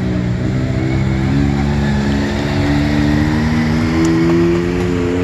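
Several rally vehicle engines running together at once, their pitches drifting slowly up and down, with no sharp revs.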